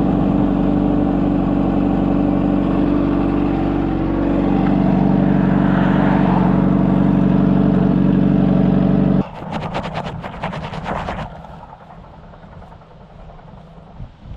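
Honda CBR600RR's inline-four engine and exhaust running at a steady pitch, then cutting off suddenly about nine seconds in. About two seconds of rapid clicking follow, then quieter noise.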